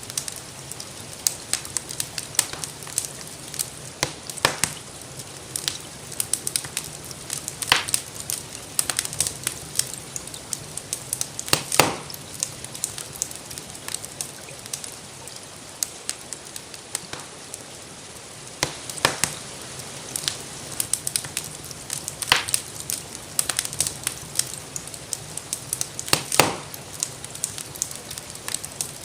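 Wood fire crackling in a fireplace: a steady hiss under frequent small snaps, with a few louder pops every few seconds. Gentle rain runs faintly underneath.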